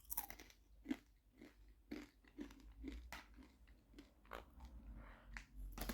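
Quaker parrot (monk parakeet) biting and chewing a potato crisp: a faint string of small, irregular crunches.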